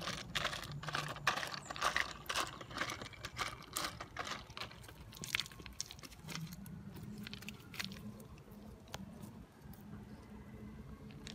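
Whole golden apple snails rattling and scraping in a metal frying pan as they are stir-fried with a stick: a quick run of shell clicks that thins out after about five seconds to occasional clicks.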